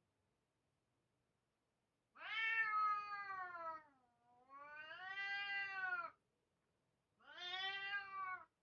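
A cat meowing: three long drawn-out meows, the second lower and bending up in pitch, the last shorter and near the end.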